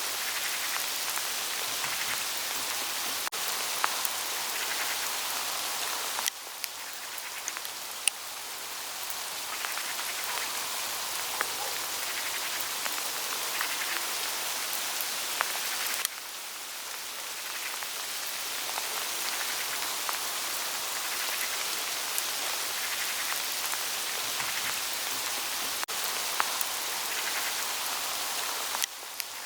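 Hail pattering on autumn forest leaves: a dense, steady hiss of small impacts with scattered sharper ticks. The patter drops suddenly about six seconds in and again around sixteen seconds, then builds back up.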